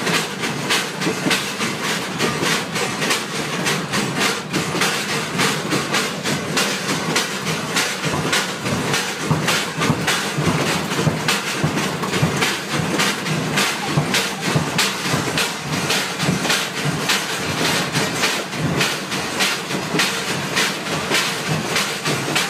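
Moving passenger train heard from inside the carriage: wheels clattering over the rail joints and the coach rattling and bouncing, a loud, continuous jumble of rapid irregular knocks over a steady rumble.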